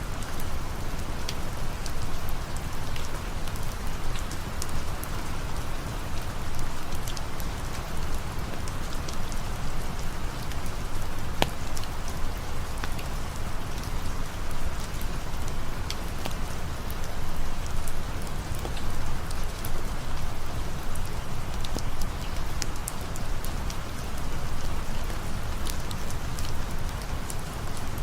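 Steady rain falling, a dense even hiss with a low rumble underneath and scattered sharp ticks of drops.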